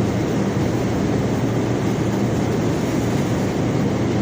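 Belt conveyor carrying rock, running with a steady rumble and low hum.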